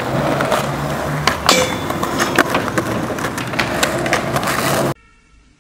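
Skateboard wheels rolling with a steady rumble, broken by sharp clacks and knocks of the board. The sound cuts off suddenly near the end, leaving faint musical tones.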